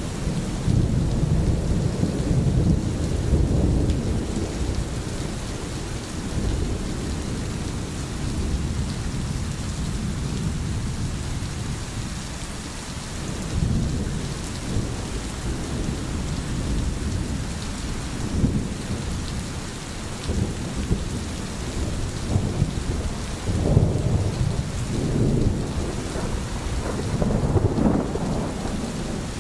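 Steady rain hissing, with deep rolling rumbles that swell and fade several times.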